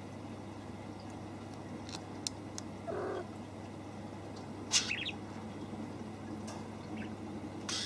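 A kitten's short mew about three seconds in and a small bird's brief chirp near the middle, with a few faint clicks over a steady low hum.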